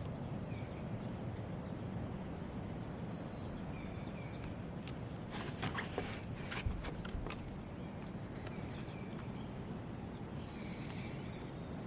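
Steady outdoor background rumble with faint, short bird chirps now and then, and a brief run of clicks and scrapes about halfway through.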